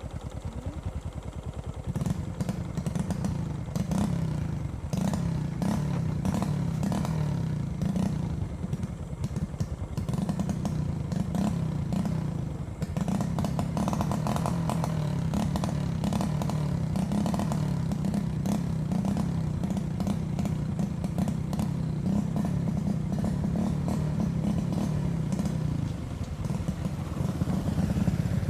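Motorcycle engine running while being ridden, getting louder about two seconds in and easing off briefly twice, with repeated knocks and rattles from riding over a rough dirt track.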